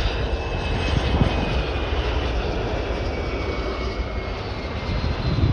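Jet aircraft engines running steadily: a broad rumble with a faint high turbine whine that drifts slowly lower.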